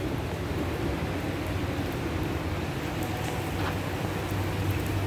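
Steady rain falling on a wet paved drive and garden shrubs, an even hiss of drops.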